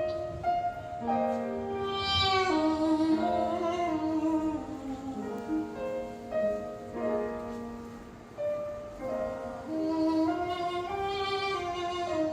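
Music from an ensemble: a slow melody in long held notes over sustained accompanying tones.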